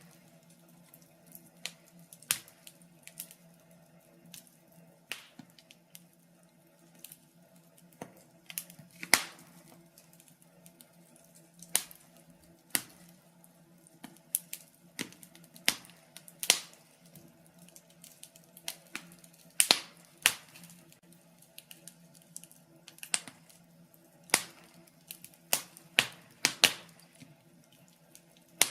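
Wood fire crackling: burning logs giving irregular sharp pops and snaps, some louder than others, over a faint steady low hum.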